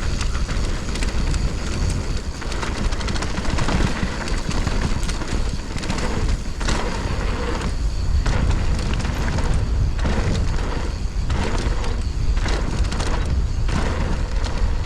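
Mountain bike descending a dirt flow trail at speed: wind rumbling on the microphone over tyre noise, with frequent short knocks and rattles as the bike goes over bumps.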